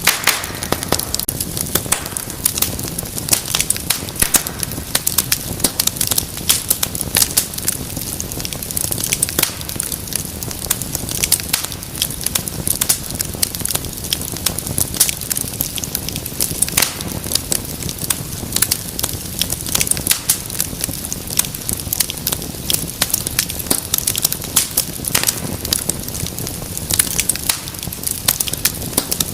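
Wood fire burning with a steady low rumble and dense, irregular crackles and sharp pops.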